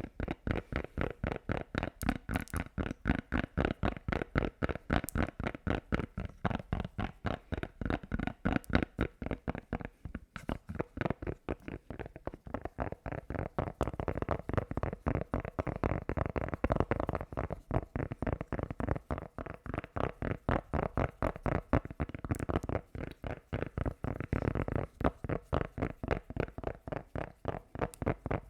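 Fast, rhythmic ASMR trigger sounds: short strokes repeating about four times a second without pause.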